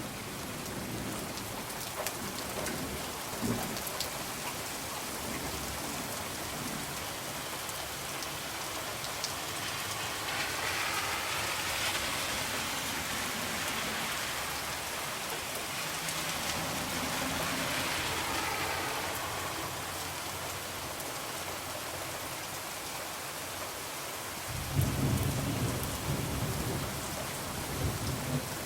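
Steady rain pattering on a window, swelling twice in the middle, with occasional sharp crackles from a wood fire. Near the end a low rumble of thunder rolls in for a few seconds.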